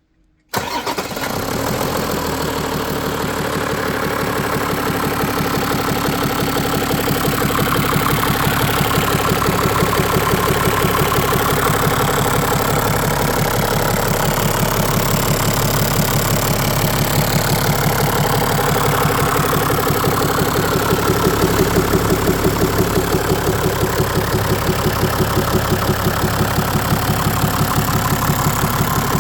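Toyota Land Cruiser 1HD 4.2-litre straight-six diesel engine starting about half a second in and then running at a steady idle with an even pulsing beat.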